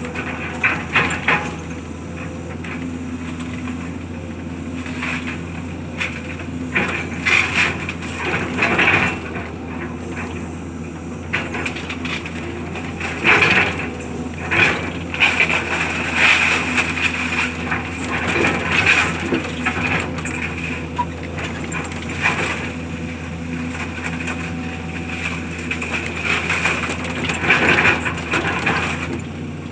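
Demolition: a heavy machine's engine running steadily while debris is crushed, with irregular bursts of crunching and cracking.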